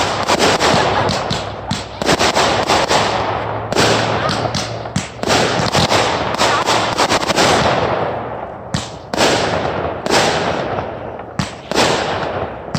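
Fireworks going off one after another, a sharp bang every second or two, each trailing off in a long hissing crackle.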